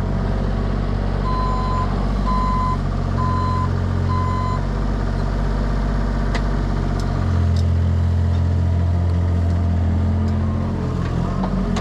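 A vehicle or machine engine running steadily, its note shifting about halfway through, with a back-up alarm beeping four times about a second apart near the start.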